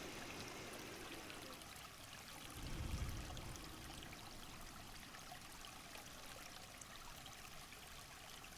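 Faint, steady rush of running water, like a rainforest stream, with a brief low rumble about three seconds in.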